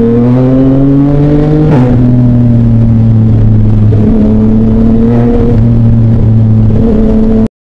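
Yamaha Tracer motorcycle engine pulling up through the revs, shifting up about two seconds in and then cruising at a steady speed, with a few small changes in throttle. The sound cuts off suddenly just before the end.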